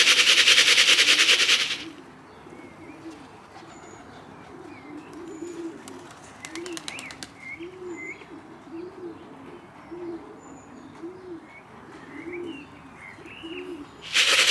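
A rapid loud rattle for the first two seconds, then racing pigeons cooing over and over, with scattered high chirps and a short patter of clicks partway through.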